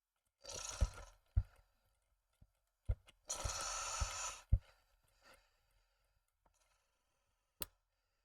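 Small model parts being handled at a workbench: a few knocks and clicks, with two short bursts of hiss, the second about a second long, and a single sharp click near the end.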